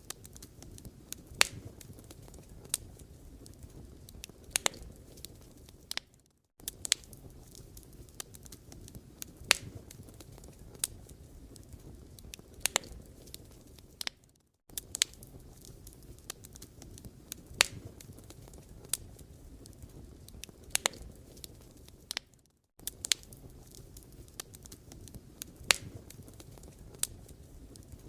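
Firewood burning: a steady low hiss of flames with sharp crackles and pops scattered through it, broken by brief silent gaps about every eight seconds.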